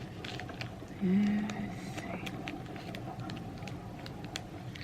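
Lipstick packaging being opened by hand: scattered light clicks and taps, with a short hummed "mm" from the person about a second in.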